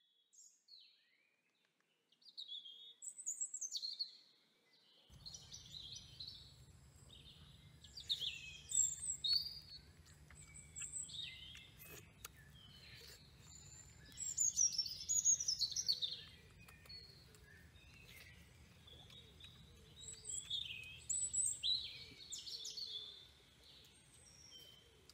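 Birds chirping and singing in many short, high calls, starting about two seconds in, over a faint low hum that comes in a few seconds later.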